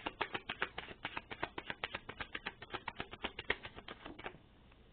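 Fast typing on a keyboard: a rapid, even run of key clicks that stops a little over four seconds in.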